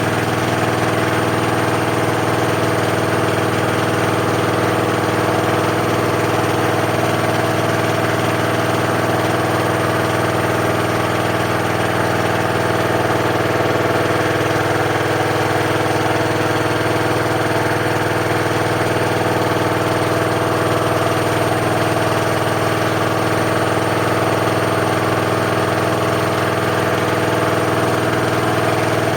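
Washing machine on its spin cycle, the drum turning at a steady speed: a continuous hum made of several steady tones that neither rises nor falls.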